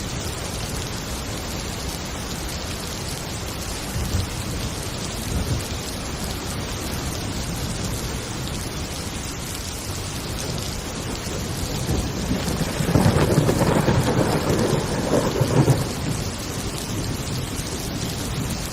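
Steady heavy rain with thunder. Small rumbles come about four and five seconds in, and a louder rolling thunderclap lasts several seconds in the second half.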